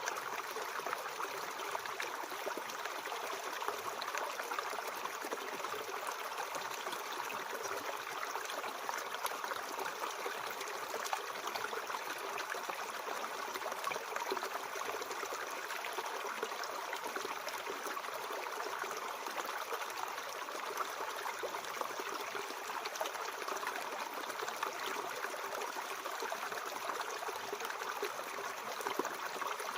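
Mountain stream flowing steadily: an even rush of water, brightest in the upper middle, with little deep rumble.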